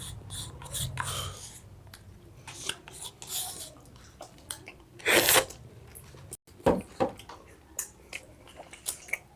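A person eating ice cream close to the microphone: wet mouth sounds of licking and chewing, with scattered small clicks and a louder noisy burst about five seconds in.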